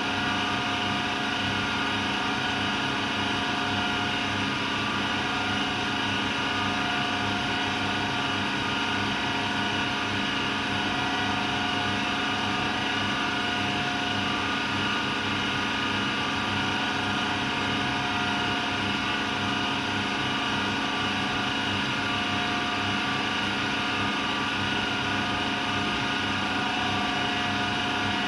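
AEG Lavamat Turbo washer-dryer running steadily near the end of its combined wash-and-dry programme: an even machine hum with a constant whine that does not rise or fall.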